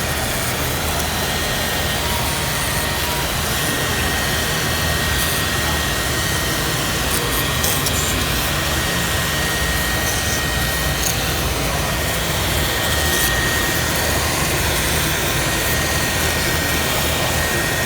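CNC machine running a cut: a steady, loud machine noise with a constant high whine and a few faint ticks about halfway through.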